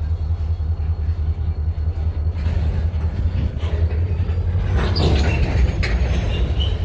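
Missouri & Northern Arkansas freight train rolling along with a single locomotive: a steady low rumble, with wheel-and-rail noise, squeals and clicks growing louder from about halfway.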